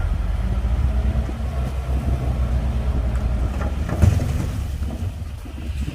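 Komatsu D58P bulldozer's diesel engine running steadily with a deep, low hum, with a sharp knock about four seconds in.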